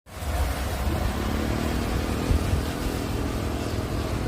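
Steady roar and low rumble of a Super Air Jet airliner landing.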